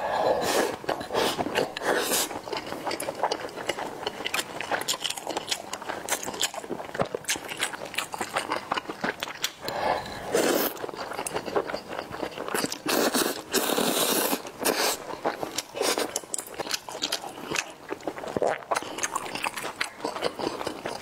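Close-miked mouth sounds of a person eating rice with saucy braised meat: wet chewing and biting as a dense run of irregular clicks.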